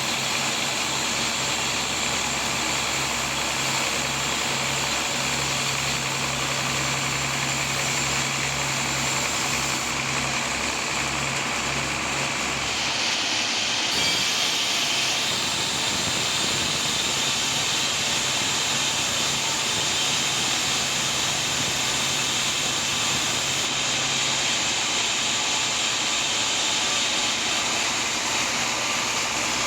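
Sawmill machinery running steadily while sawing a teak log: a continuous mechanical drone with a low engine hum. The hum drops away about halfway through.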